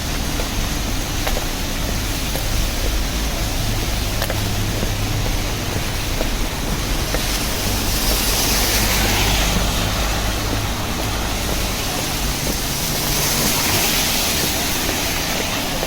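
Rainy city street: a steady hiss with low traffic rumble, and cars swishing past on wet pavement, swelling about halfway through and again near the end.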